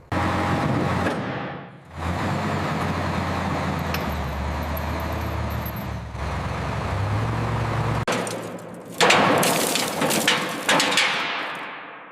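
A heavy vehicle's engine running steadily, with a brief dip about two seconds in, followed near the end by a series of loud metallic clanks and rattles that die away.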